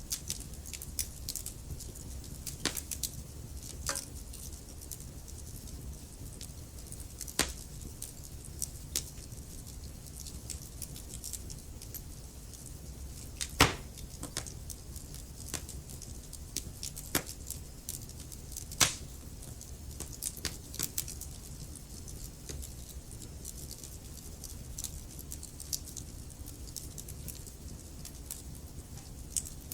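Wood fire burning in a fireplace: a steady low rumble with irregular sharp crackles and occasional louder pops, the loudest about halfway through.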